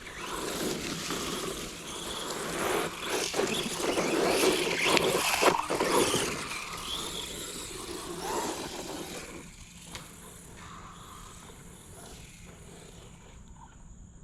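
A ZD Racing DBX-10 1/10-scale brushless RC truck driving over rough ground, its tyres scraping. It is loudest in the middle and dies down after about nine seconds.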